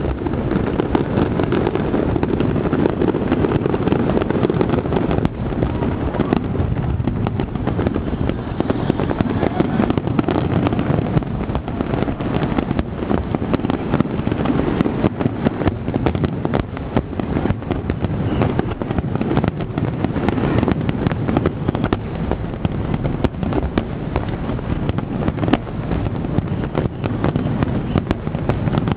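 Fireworks finale: a dense, continuous barrage of aerial shells bursting in rapid succession, the bangs running together into a steady rumble with sharp cracks on top.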